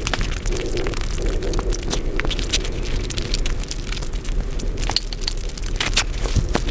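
Close-miked mukbang eating sounds sped up five times: chewing and mouth smacking on luchi/puri and curry run together into a dense, rapid crackle of clicks.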